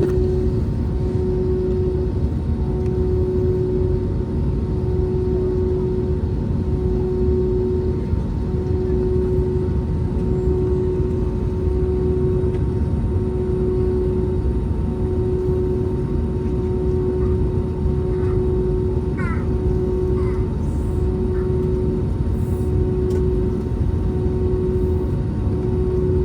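Airbus A321neo jet engines running, heard from inside the cabin: a loud steady rumble with a hum that throbs about every second and a half.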